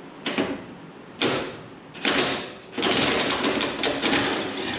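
Power drill run in reverse to back out a tight bolt: three short trigger pulls, then a longer run of about two seconds while it works the stubborn bolt.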